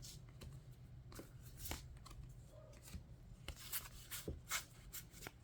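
Trading cards being handled and sorted: soft rustles and light taps as cards slide over one another and are set down in piles, over a steady low room hum.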